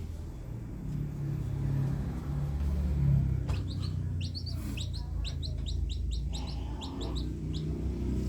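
A small bird chirping in a quick series of short, high, falling notes starting about three and a half seconds in, over a steady low rumble.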